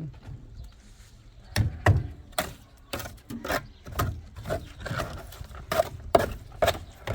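A run of sharp, irregular knocks, about two a second, starting about one and a half seconds in.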